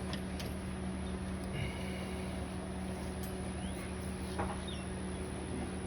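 Steady low background hum, with a few faint light clicks scattered through it.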